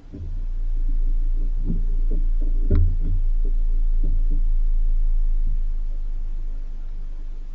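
Steady low rumble of a 4x4 driving over a dirt road, with irregular knocks and clunks from the suspension and body as it goes over bumps; the loudest, sharpest knock comes a little under three seconds in.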